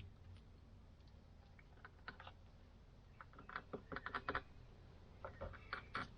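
Faint, irregular light clicks and taps of small metal parts being handled, bunched in short runs in the second half.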